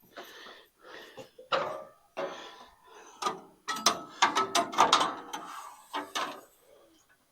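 Irregular metallic clicking, ratcheting and clanking of a metal mechanism being worked by hand, with a dense run of rapid clicks and rattles a little past halfway.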